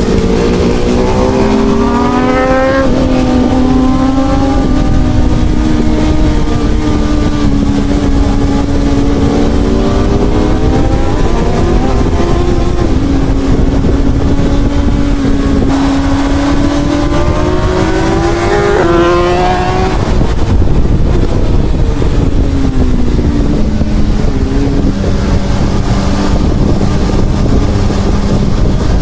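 Honda CB1000R inline-four motorcycle engine under way, its note rising under acceleration, then falling back and holding steady, with a sharp drop about two-thirds through and another climb at the end. Steady wind rush over it.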